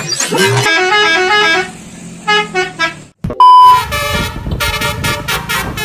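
Multi-tone Basuri 'telolet' bus horn playing a tune of quick stepped notes. It breaks off about three seconds in, and after a short gap a loud steady beep leads into a second run of horn notes.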